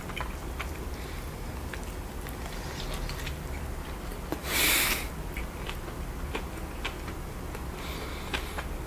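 Close-miked chewing of a cheeseburger with a fried mushroom patty: wet mouth clicks and smacks throughout. A short, louder hiss of about half a second comes near the middle.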